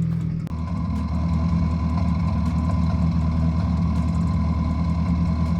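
Subaru WRX FA20 2.0 L turbocharged flat-four engine idling and running badly, misfiring because of a stuck-open fuel injector on cylinder 1. The sound changes about half a second in.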